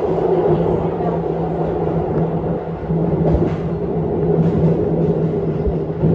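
Electric commuter train running, with a steady hum and rumble and a few short knocks from the wheels on the track.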